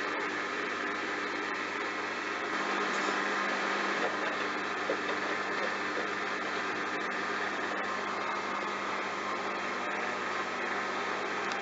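Bosch washing machine running through its wash with a load of towels: a steady hum with even noise and no breaks.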